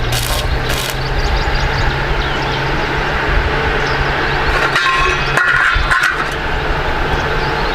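Electric arc welding on an iron frame: a steady crackling hiss over a constant low electrical hum. The sound brightens and sharpens for about a second and a half past the middle.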